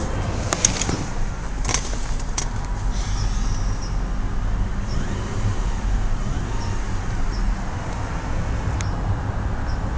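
BMW 323Ci's 2.5-litre inline-six engine idling steadily. A few sharp clicks come in the first couple of seconds, and one more near the end.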